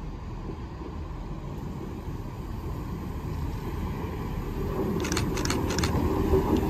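Chiltern Railways diesel multiple unit approaching along the platform, its low rumble growing steadily louder, with a few sharp clicks about five seconds in.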